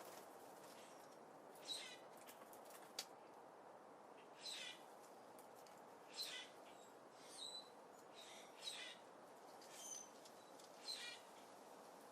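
Small birds chirping: short single calls every second or two over a faint steady hiss, with one sharp click about three seconds in.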